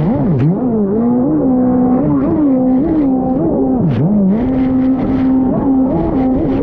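Stand-up jet ski engine running hard, its pitch swooping down and back up again and again as the throttle is worked.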